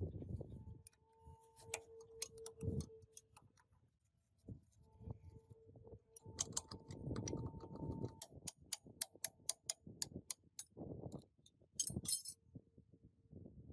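Metal parts being handled during restoration work: a run of light metallic clicks and taps, several a second, over handling noise and a faint hum that comes and goes.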